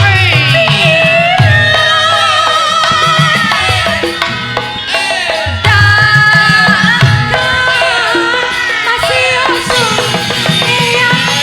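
Javanese gamelan music with kendang hand-drum strokes under pitched instrument and voice lines.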